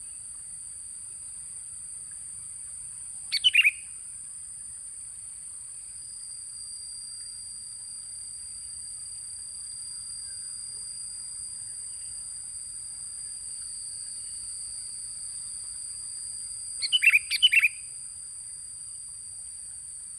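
Sooty-headed bulbul (kutilang) lure call: two short phrases of a few quick notes, one about three and a half seconds in and a longer one near the end. A steady high-pitched hiss-like drone runs underneath.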